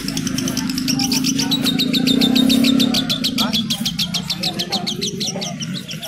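Caged birds at a bird market chirping rapidly and evenly, about ten high chirps a second. Under them a low engine hum swells over the first half and then fades.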